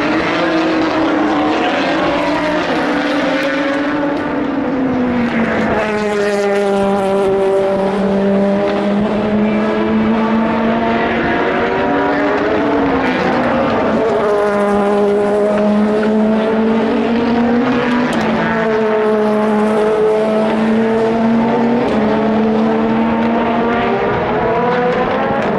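Endurance race cars passing at speed, their engines rising and falling in pitch through gear changes, several overlapping one after another.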